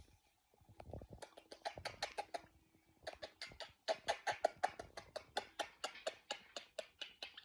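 Pet birds making a quick run of short kissing smacks and clicks, about five a second, starting about a second in.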